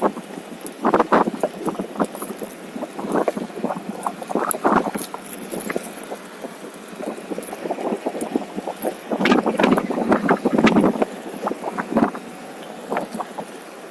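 Onewheel rolling over an uneven trail: irregular clattering and crunching from the tire and board, heaviest about a second in, again around four and a half seconds, and from about nine to eleven seconds, with wind rushing over the microphone.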